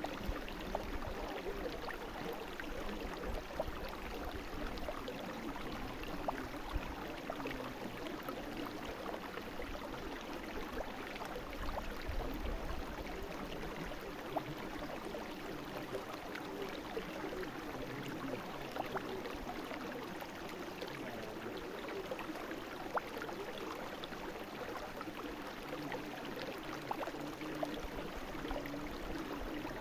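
A brook flowing steadily, a continuous rush of water with many small splashes and gurgles.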